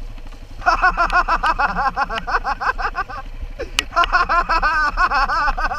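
Dirt bike engine revving hard at high rpm in two long pulls with a short break between them, its pitch wavering rapidly, over the low running of another engine.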